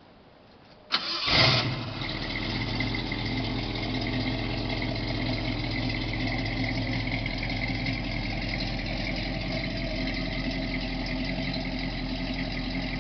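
A 1971 Ford Torino's 429 V8 starts about a second in, catching at once with a brief flare, then settles into a steady idle.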